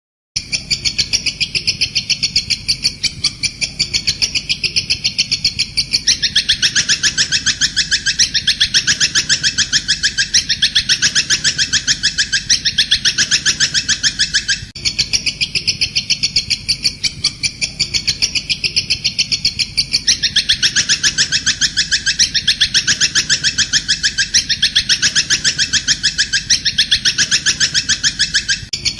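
Bird-song training recording of a bird giving a fast, continuous chattering trill of high pulsed notes. The trill widens lower about six seconds in, and the whole passage repeats as a loop roughly every fourteen and a half seconds.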